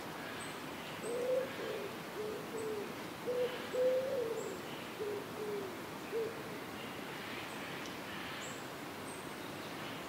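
Mourning dove cooing: a run of about eight soft, low hooting notes from about a second in to about six seconds in, the first and longest ones gliding up and then down. A steady hiss and a few faint high chirps lie underneath.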